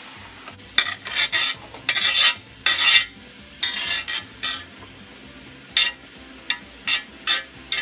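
A cooking utensil stirring and scraping onions and garlic around in a wok, in a series of quick, irregular strokes.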